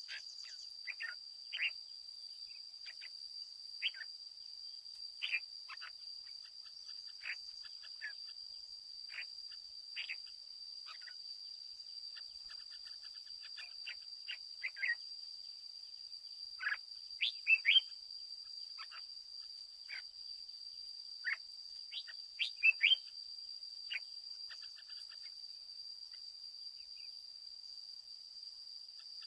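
Red-whiskered bulbul calling in short, scattered chirped notes, with a few louder quick notes a little past halfway and again about three-quarters through. A steady high-pitched whine runs underneath.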